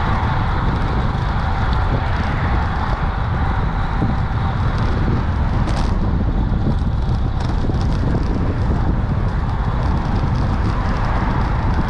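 Steady wind rush and road noise on the microphone of a moving bicycle-mounted camera, with a faint tick about six seconds in.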